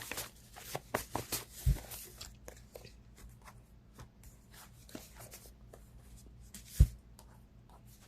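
Cards being shuffled and handled close to the microphone: a quick run of rustling clicks for the first couple of seconds, then scattered ticks, with two dull thumps, one near two seconds in and a louder one near the end.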